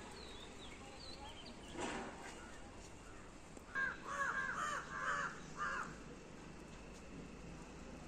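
A bird calling about five times in quick succession, a little past the middle, over faint higher chirping and a steady outdoor background.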